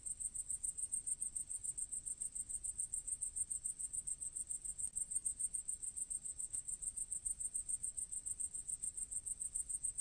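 A grasshopper stridulating: a high-pitched song of rapid, evenly spaced pulses that keeps a steady rhythm throughout.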